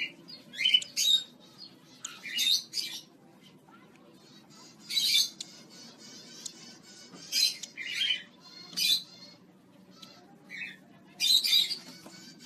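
A parrot squawking: a series of short, harsh calls every second or so, with longer pauses between some of them.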